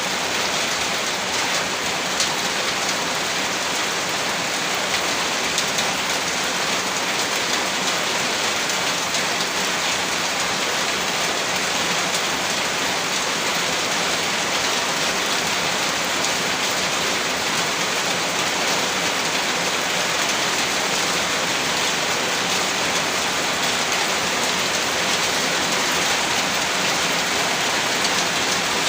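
Steady rainfall: a dense, even hiss of raindrops spattering, unchanging throughout, with no thunder.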